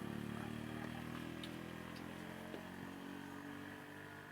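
A motor vehicle's engine pulling up a steep grade, running steadily and slowly fading as it moves away.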